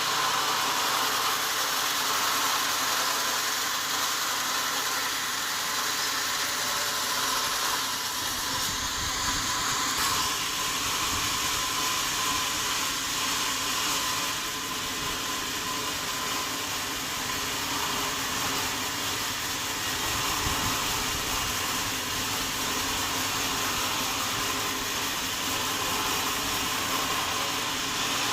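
Sawmill saw running steadily through wadang wood, an even hiss with a faint constant whine that neither starts nor stops.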